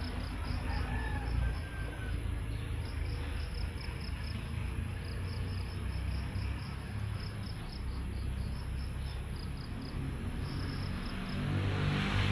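Cricket chirping in quick, even pulses, several a second, with short pauses between runs, over a steady high tone and a low rumble that grows louder near the end.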